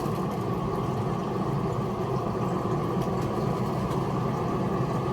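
Steady low hum of an idling engine, running evenly without change.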